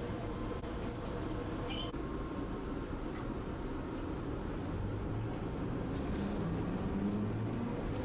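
Tosaden streetcar's running noise heard from on board: a steady low rumble of the tram on its rails, with a brief high tone about a second in.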